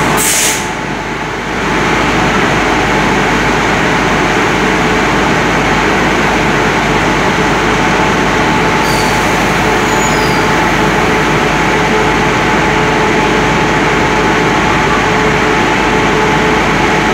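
Passenger train standing at a station platform with its machinery running: a loud, steady drone with a faint steady hum tone.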